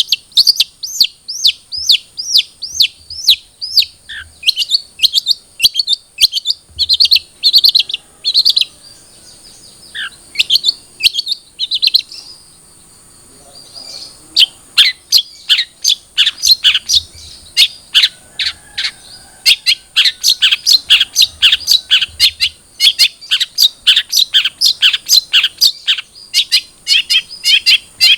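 Young long-tailed shrike (cendet trotol, still in spotted juvenile plumage) calling in rapid runs of short, sharp chirps, several a second. It pauses briefly about halfway, then resumes in a faster, denser run.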